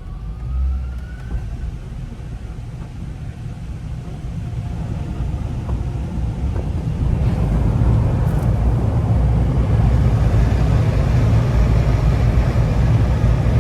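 Proto-Vest Windshear car wash dryer blowers running: a rush of air with a heavy low rumble. A faint rising whine comes in the first second or so, and the noise grows steadily louder until about eight seconds in, then holds at full strength.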